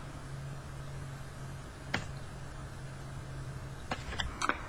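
Faint room noise with a steady low hum, broken by a soft tap about two seconds in and a few small clicks near the end: oracle cards being handled and laid down.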